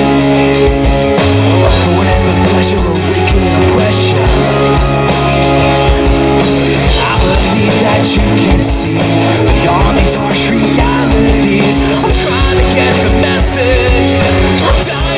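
Rock band playing an instrumental passage: distorted electric guitar, bass and drums, with a steady kick-drum beat and held bass notes.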